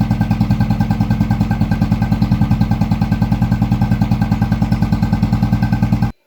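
Royal Enfield Classic 350's single-cylinder engine idling steadily through an aftermarket K Indori silencer with baffles, giving an even exhaust thump of about twelve beats a second. The sound stops abruptly near the end.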